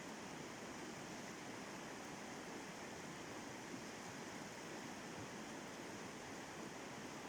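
River rapid rushing steadily, an even flow of water noise with no break.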